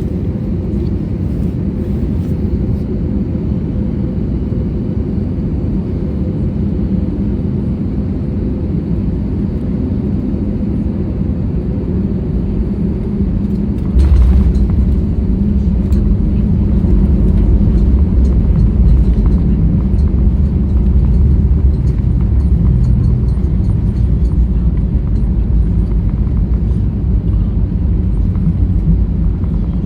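Steady cabin rumble of an Airbus A320neo on final approach. About halfway through, a sudden jolt is followed by a louder, deeper rumble that carries on: the touchdown, then the landing roll down the runway.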